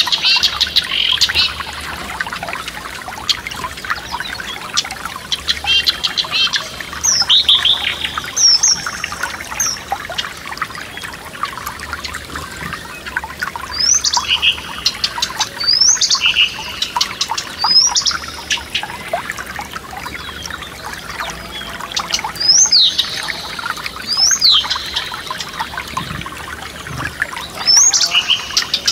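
Forest stream trickling and splashing steadily while songbirds sing over it, with short, sharp, high whistled notes repeating every second or two.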